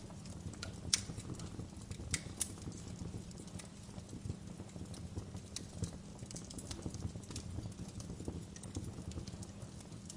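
Wood fire in a fireplace crackling: scattered sharp pops and snaps over a low, steady noise of the burning, with the loudest pops about a second and two seconds in.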